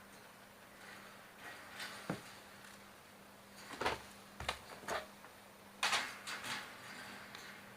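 A few soft knocks and short scraping, rustling noises of something being handled, coming in two clusters about four and six seconds in.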